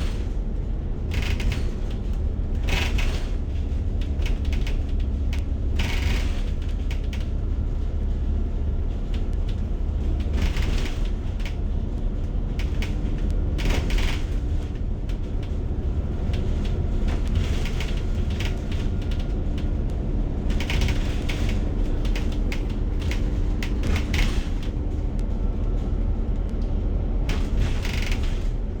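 Inside a moving bus: a steady low engine and road rumble with a faint hum, and frequent short rattles and creaks from the bus's body and fittings.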